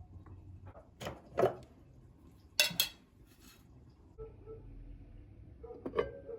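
Dishes and cutlery being handled in a kitchen: a couple of soft knocks about a second in, a sharp clatter of dishes in the middle, and a knock with a brief ringing clink near the end.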